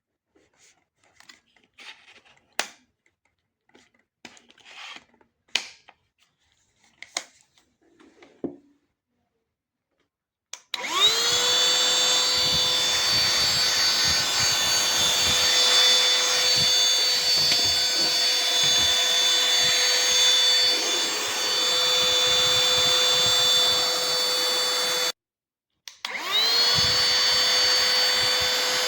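SIMWAL cordless handheld vacuum cleaner switched on about ten seconds in: its motor spins up with a rising whine and runs steadily with a pitched hum and a high whine. It is switched off briefly near the end and spins up again. Before it starts, scattered small clicks and knocks.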